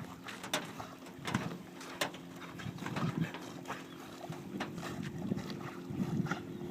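Dogs playing: scattered knocks and clicks with low scuffling, over a faint steady hum.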